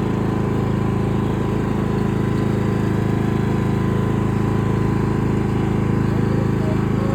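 Cub Cadet lawn mower's engine running steadily at a constant speed.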